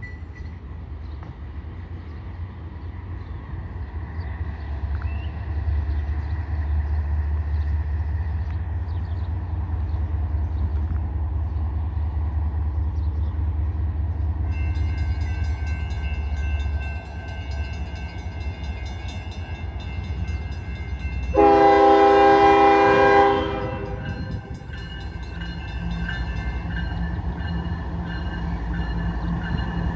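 Norfolk Southern diesel locomotives leading an intermodal train approach, their low engine rumble building. High steady ringing tones join about halfway. About three-quarters of the way in the locomotive horn sounds one loud blast of about two seconds.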